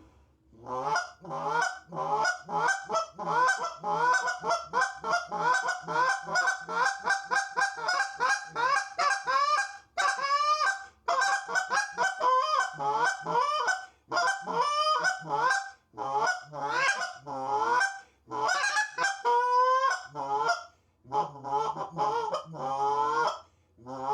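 Tim Grounds G-Force goose call, its longer insert built for a deeper tone, blown in a fast run of honks and clucks of about three notes a second, each breaking from a low to a high note, with a few short pauses and one longer held note about two-thirds of the way through.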